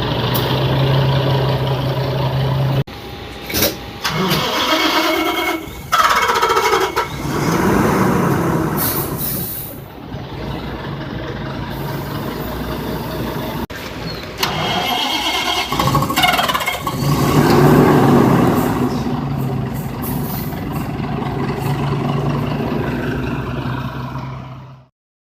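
Daewoo BS110 city bus engine running, heard in a series of short clips. It starts as a steady low hum, and twice the pitch rises and falls as it revs or pulls away. The sound cuts off suddenly near the end.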